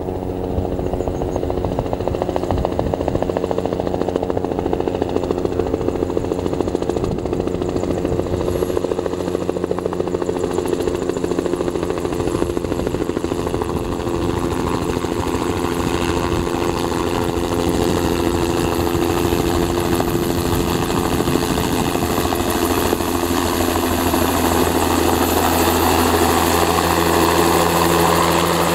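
Bell 206 JetRanger helicopter running, its single turboshaft engine whine layered over the rotor beat. It grows slightly louder and fuller about halfway through.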